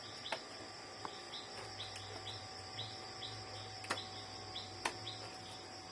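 A steady high insect drone with a short chirp repeating about twice a second. A few sharp, light clicks stand out above it.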